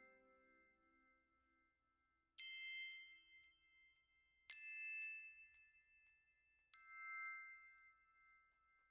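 Quiet background music of glockenspiel-like chime notes: three single struck notes about two seconds apart, each ringing out and slowly fading.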